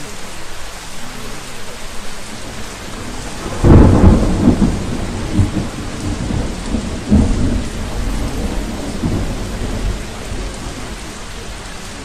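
Steady rain with a clap of thunder about three and a half seconds in, which rolls on as a low rumble in several swells before fading back into the rain.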